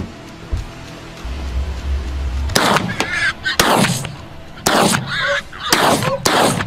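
About six gunshots from a wild boar hunt in quick succession over the second half, each followed by a short echo, with brief yelping animal calls between the shots.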